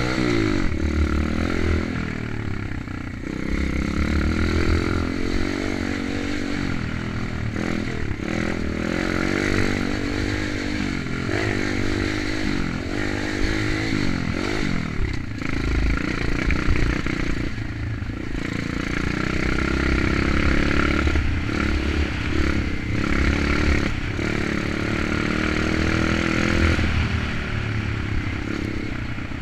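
Kayo 125 pit bike's single-cylinder four-stroke engine being ridden, its pitch rising and falling again and again as the throttle is opened and closed, with rattling and a heavy low rumble underneath.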